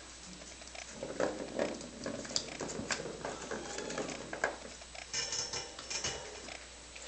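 Kittens batting the ball around the plastic track of a Turbo Scratcher cat toy: irregular clicks and rattles of the ball rolling and knocking in the track, starting about a second in, busiest near the end.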